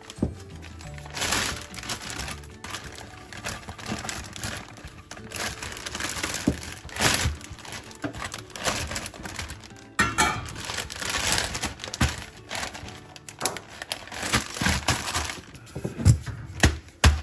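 Plastic zip-lock bag crinkling and rustling as gloved hands handle pieces of cooked chicken breast inside it. Near the end, a few heavy thumps start as the bag of chicken is pounded to break up the meat for floss.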